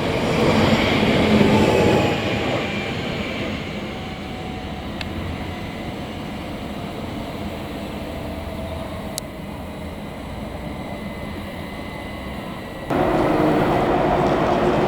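A train running on the station tracks, loudest for the first two seconds and then a steadier, quieter rumble with faint tones. Near the end the sound jumps abruptly louder.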